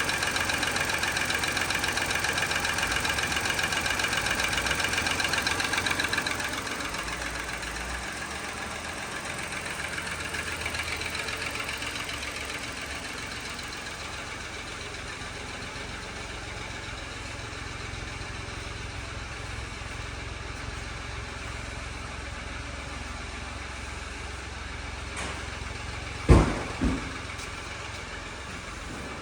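2018 Mitsubishi Mirage's 1.2-litre three-cylinder engine running. It is louder for about the first six seconds, then settles to a quieter, steady idle. Near the end there is a sharp knock followed by a smaller one.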